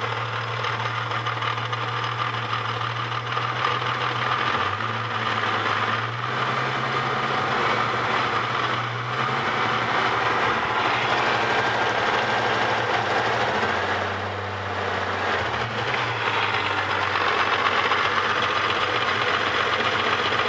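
Holden VS Series II Commodore's Ecotec 3.8-litre V6 running steadily, with a rattle that the owner believes is internal to the high-mileage engine (about 400,000 km). The low engine hum shifts slightly in pitch a few times.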